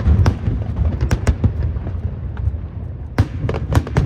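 Fireworks bursting overhead: a rapid string of sharp bangs over a low rumble, thinning out in the middle and thickening again about three seconds in.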